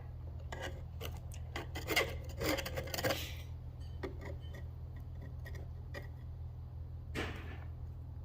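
Short scraping and rubbing strokes on metal, a quick run of them about a second in and one more near the end: old gasket maker and gunk being scraped off the starter switch mounting on a Ford Jubilee tractor. A steady low hum runs underneath.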